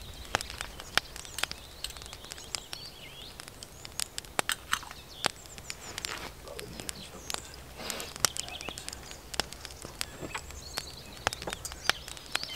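Woodland birds chirping now and then over scattered sharp clicks and light knocks.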